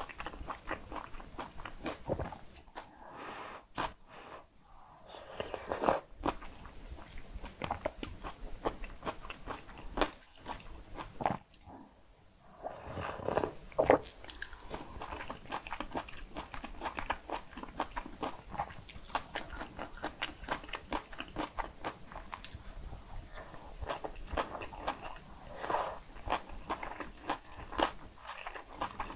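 Close-miked eating sounds: a person chewing and biting mouthfuls of cockle bibimbap with seasoned raw radish and kimchi soft tofu stew, a dense run of wet clicks and crunches with two brief lulls.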